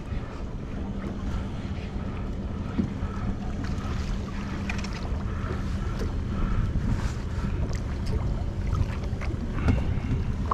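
Wind on the microphone and water against a small fishing boat's hull, over a steady low rumble and hum, with scattered small clicks.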